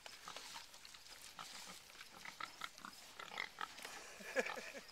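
Pigs eating: scattered chewing and smacking sounds, with a few short grunts about four seconds in.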